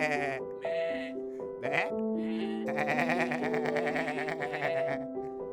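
Goat bleating over soft background music: a few short bleats, then one long wavering bleat of about two seconds.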